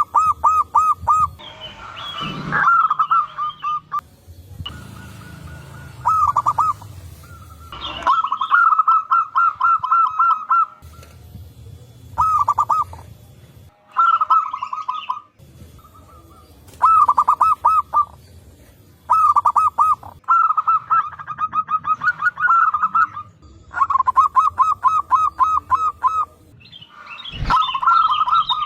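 Zebra doves (perkutut) cooing in quick bursts of rapidly repeated notes, about eleven bursts with short gaps between them, as birds answer one another. A few brief higher chirps come in among them.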